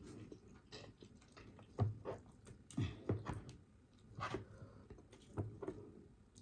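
Close-miked chewing and wet mouth sounds of someone eating, with a few louder smacks spread through.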